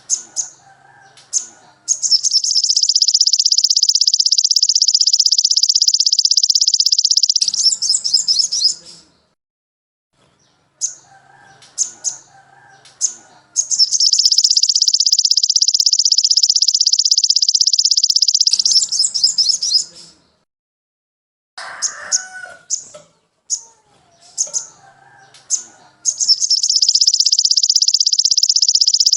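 Recorded songbird tutor song: three long high-pitched rapid trills of about five seconds each, near the start, the middle and the end, separated by short sharp chirps and lower warbling calls.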